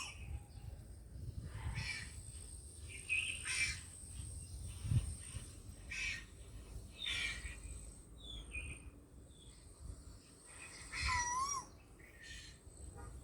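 Birds calling: scattered short chirps and whistles, with a wavering, warbled call about eleven seconds in, over a steady high-pitched whine.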